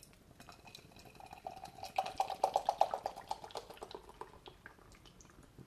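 Beer being poured from its container into a glass, with rapid glugging that peaks about two to three seconds in and fades near the end.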